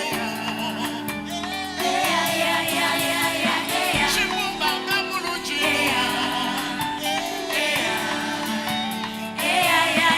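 Live gospel worship song: several voices singing together over a steady band accompaniment, the voices coming in about two seconds in.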